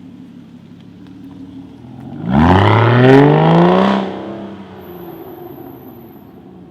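V12 supercar engine opening up hard about two seconds in, its exhaust note climbing steeply in pitch for a second or two, then falling away to a fainter, lower note as the car moves off.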